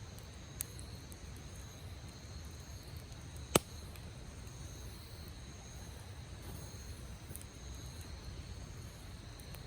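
Campfire burning with a low steady rumble, and the wood gives one sharp loud pop about three and a half seconds in, after a fainter one. Insects trill steadily in the background as two thin high tones.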